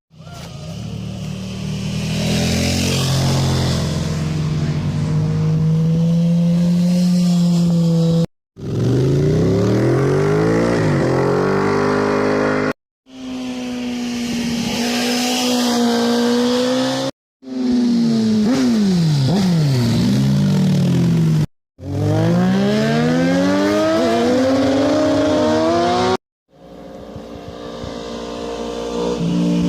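Motorcycle engines accelerating and passing by in a string of short clips, each cut off abruptly. Their pitch climbs as they accelerate and drops as they go past.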